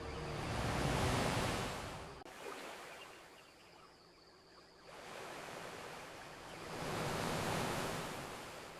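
Ocean waves washing onto a beach: two swells of surf about six seconds apart, the first loudest about a second in, the second building toward the end and fading.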